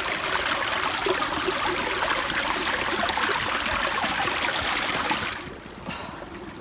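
Fast-flowing brook water rushing and splashing close by, a steady hiss that cuts off abruptly a little over five seconds in.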